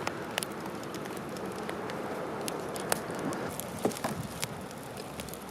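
Wood campfire burning: a steady hiss of flames with scattered sharp crackles and pops.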